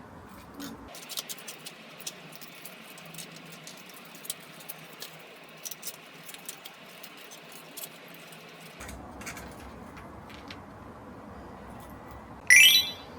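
Scattered light clicks and taps from small objects being handled, then a single short, loud high squeak that rises sharply in pitch near the end.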